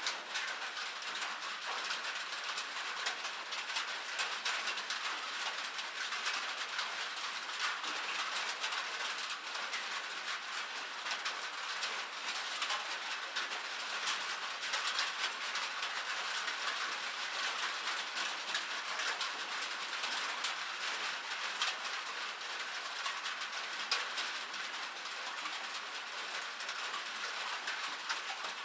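Steady rain, with many small raindrop ticks pattering densely and evenly throughout.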